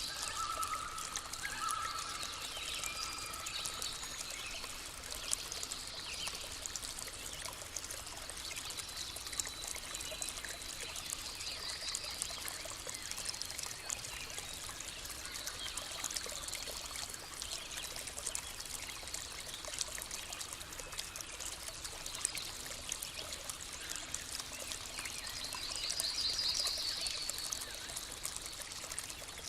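Small stream of water trickling and splashing steadily, with short bird trills now and then; a longer trill comes near the end.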